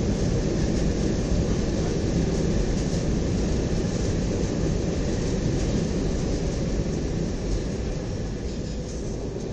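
Airliner cabin noise: a loud, steady rumble of engines and rushing air, easing slightly near the end.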